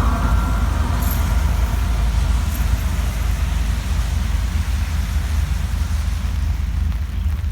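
Norfolk Southern freight train rolling by and fading away, a steady low rumble under a fading wash of wheel and car noise.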